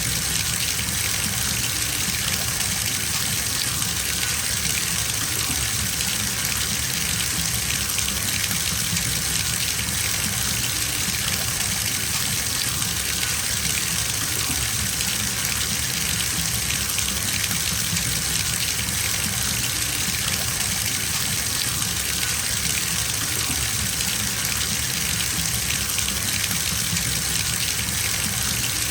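Water gushing steadily from a bathtub tap into the tub as it fills, an even, unbroken rush.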